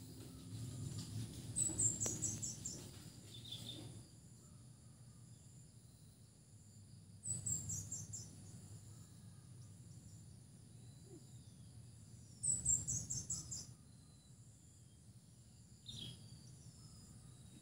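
A small bird singing a short phrase of quick, high, stepped notes, repeated three times about five seconds apart, over a steady high insect drone.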